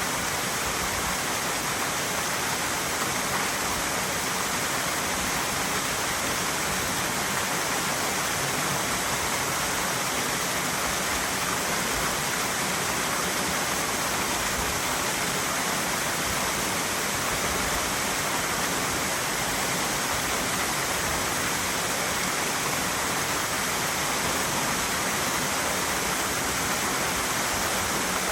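Mountain stream water rushing steadily, an even, unbroken noise.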